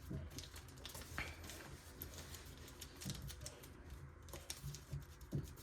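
Origami paper being handled and creased by hand: faint, scattered small taps and crinkles.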